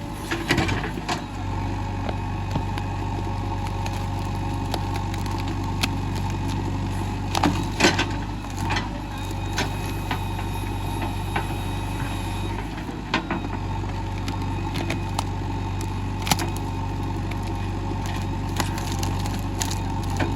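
JCB 3DX backhoe loader's diesel engine running steadily, with scattered sharp knocks and clunks over it, the loudest about eight seconds in and again around sixteen seconds.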